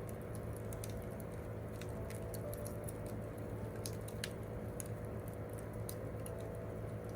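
Wood campfire crackling: irregular sharp pops and snaps of burning wood, several a second, over a steady low background.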